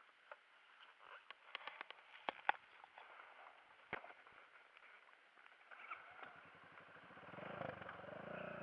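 A few faint clicks and knocks, then from about six seconds in a dirt bike engine comes in and grows steadily louder.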